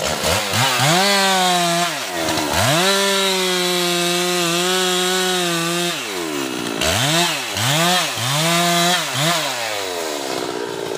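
Husqvarna two-stroke chainsaw revved to full throttle and held there twice, then blipped up and down three or four times before dropping back to idle near the end.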